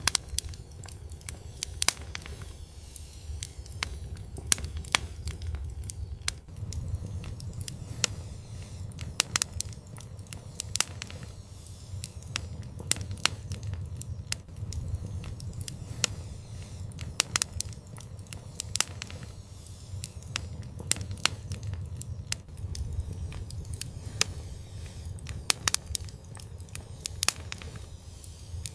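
Wood fire burning in an outdoor fireplace: a steady low rumble of flames with frequent sharp crackles and pops at irregular moments.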